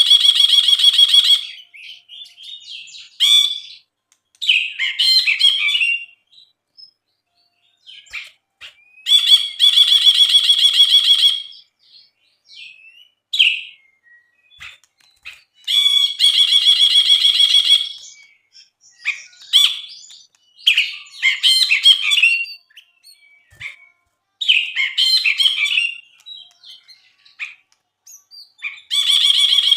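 Brinji (bulbul) singing: harsh, rapidly pulsed buzzing phrases about two seconds long, repeated every several seconds, alternating with shorter chattering phrases.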